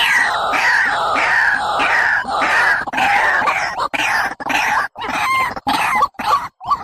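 Barred rail (tikling) calling: a run of harsh notes, each sliding downward, about two a second. From about four seconds in the calls break into shorter notes with abrupt cuts between them, as in an edited, looped lure recording.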